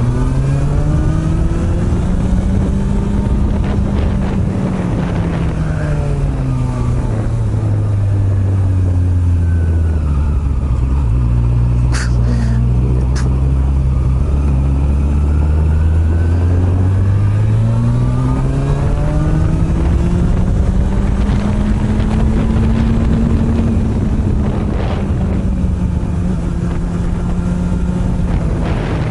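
Honda CB400 Super Bol d'Or NC42's inline-four, breathing through an aftermarket r's gear muffler, under way on a ride. The revs climb over the first few seconds, sink and hold low for a long stretch, then climb again. Two short high ticks come about halfway through.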